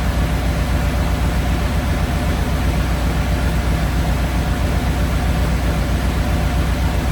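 Ford flathead engine with twin Holley 94 carburetors idling steadily, with an even, rapid low pulse, while its carburetors are being balanced.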